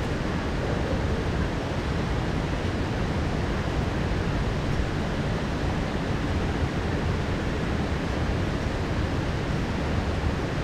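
Heavy rain pouring down steadily, a constant even hiss with a strong low rumble underneath.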